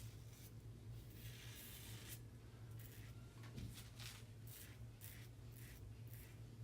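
Faint scratchy strokes of a Merkur 20C safety razor scraping lathered stubble, several short strokes in quick runs, over a steady low hum.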